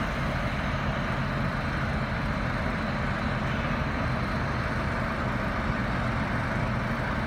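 Steady engine and vehicle noise, an even low rumble with no clear changes.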